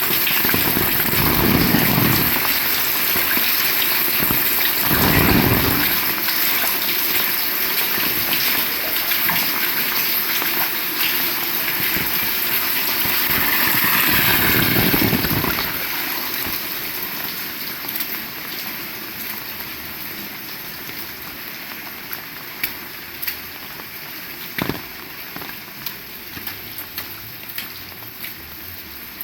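Heavy rain falling steadily, with a few low rumbles in the first half. The rain grows quieter over the second half, leaving single drops ticking near the end.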